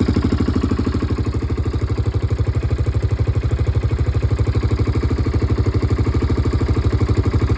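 1998 Yamaha Grizzly 600 ATV's single-cylinder four-stroke engine idling steadily at a low, even idle, with a regular rapid pulse of firing strokes.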